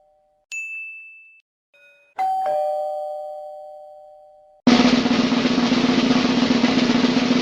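Sound-effect clips: a few short ringing tones that fade, the longest lasting about two seconds, then about five seconds in a snare drum roll starts and keeps going.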